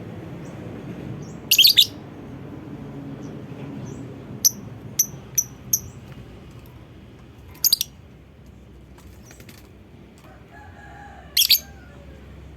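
Lovebird giving short, shrill chirping calls in separate bursts: one about a second and a half in, a quick run of four chirps around the middle, then two more single bursts later.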